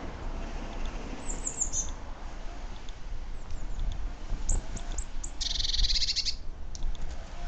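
Small garden songbirds calling: a few high, short chirps, then a rapid, dense trill about a second long near the end, over a steady low rumble.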